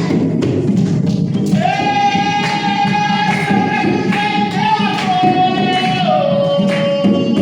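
Jongo song: a steady hand-drum beat, with a voice entering about a second and a half in and singing long held notes that step down in pitch.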